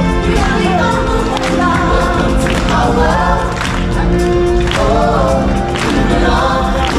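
A live show song: a group of singers sings together in a choir over a band, with a drum hit about once a second.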